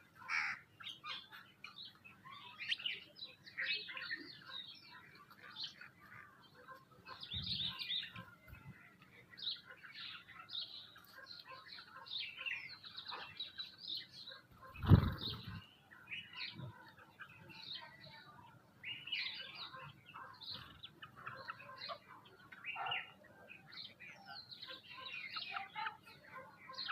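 Small birds chirping and calling without pause, a busy mixed chatter of the kind sparrows and mynas make at a feeding spot. About halfway through comes a single dull thump, the loudest sound in the stretch.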